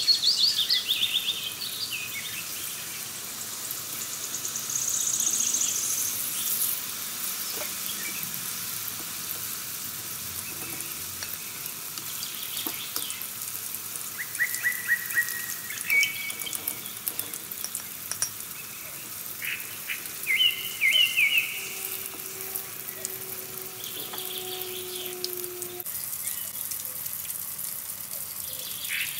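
Banana slices deep-frying in hot oil in an aluminium wok: a steady sizzling crackle, stirred now and then with a slotted metal spoon. Birds chirp a few times in the background, loudest about twenty seconds in.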